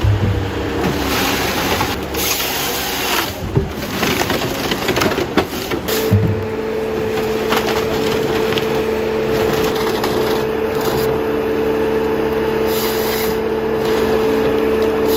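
Logs being sawn into sections, with wood cracking and scraping and a few sharp knocks. A steady, high engine note sets in about six seconds in.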